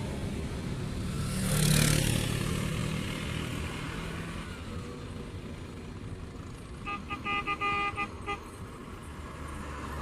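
A vehicle passes close by with a low engine hum, loudest about two seconds in, then a horn toots in several short, quick blasts about seven seconds in, with traffic noise throughout.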